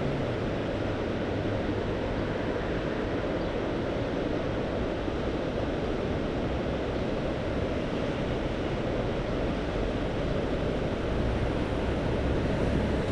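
Mediterranean Sea waves washing in as a steady rush of surf, swelling a little near the end, with some wind on the microphone.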